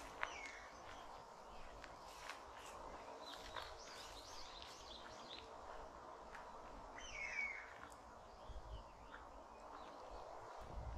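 Wild birds calling and chirping faintly from several directions, with one louder call of quick gliding notes about seven seconds in.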